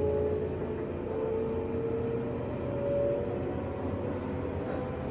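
Running sound inside a JR West 201 series electric train's motor car: steady whining tones from the drive over the low rumble of wheels on rail, the whine stepping up in pitch about a second in and again near three seconds.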